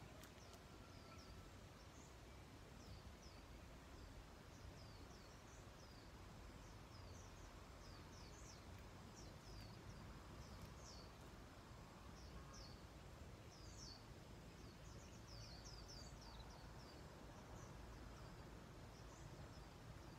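Faint outdoor ambience with small birds chirping: many short, high chirps, thickest around the middle, over a low steady background noise.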